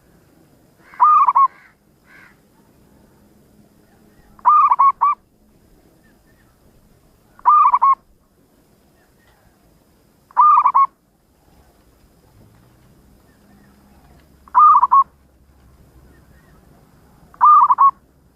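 Zebra dove (perkutut) cooing, one short trilled coo phrase about every three seconds, six in all.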